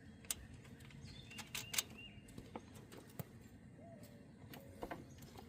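Faint, scattered light clicks and taps as a nut is put back onto the new starter by hand, with a few faint bird chirps in the background.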